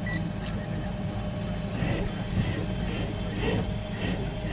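A vehicle engine idling steadily with a low hum. From about two seconds in, faint radio voices or music play over it.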